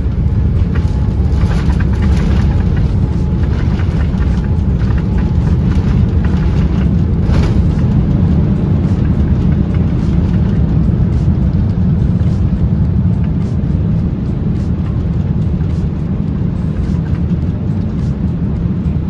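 Steady low rumble of jet engines and airflow heard inside an airliner's cabin.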